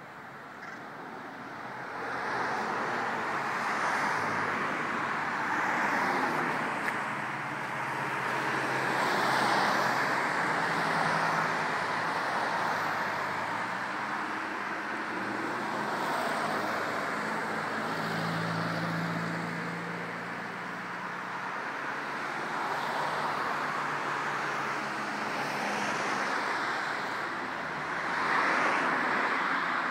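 Road traffic noise: a steady roar of passing vehicles that swells and eases every few seconds, with engine hum from passing cars.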